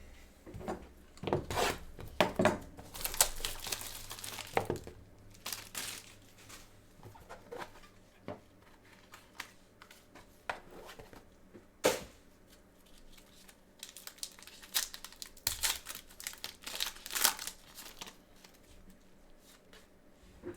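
A trading-card box being opened by hand: its wrapper torn and crinkled, with irregular rustling and clicks as packaging and cards are handled, and a single sharp click about twelve seconds in.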